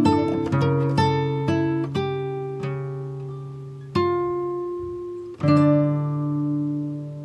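Background music of plucked guitar notes, quick picking at first, then a few single notes and chords left to ring out and fade.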